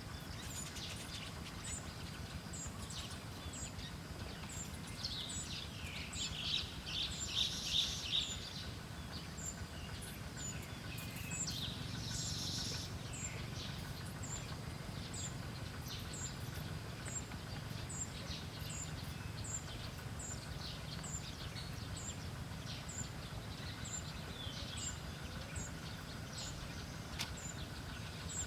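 Small birds chirping: a short high-pitched chirp repeats about every three-quarters of a second, with a louder flurry of chirps about six seconds in and another near twelve seconds, over a steady low background rumble.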